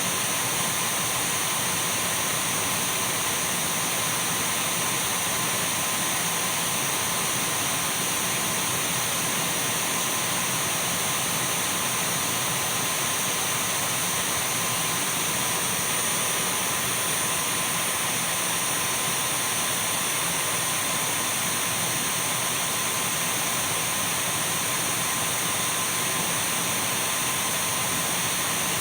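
Dyson V12 cordless stick vacuum cleaner running steadily at constant speed: an even rush of air with a thin, high, unchanging motor whine.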